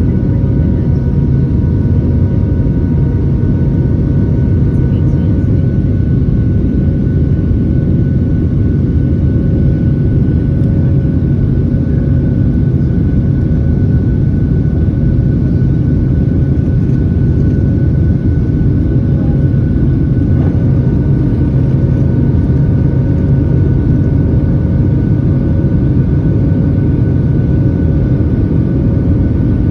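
Cabin noise of a Boeing 737-700 in flight: the CFM56-7B turbofan engines and airflow make a loud, steady roar with a faint constant whine above it.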